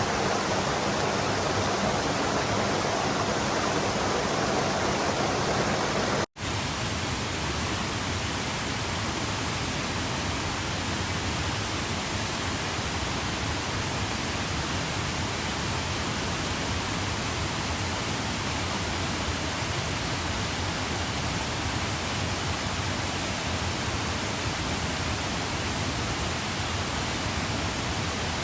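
Steady rushing of water. It cuts out for an instant about six seconds in, then carries on slightly softer.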